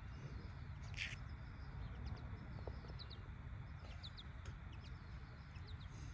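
Small birds chirping in short, quick, high calls over a steady low rumble of wind or outdoor noise, with one short sharp hiss about a second in.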